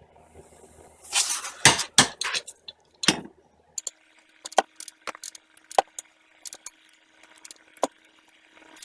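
Metal tools and brake parts clinking and knocking as they are handled, in a series of irregular sharp clicks and clanks, busiest in the first few seconds.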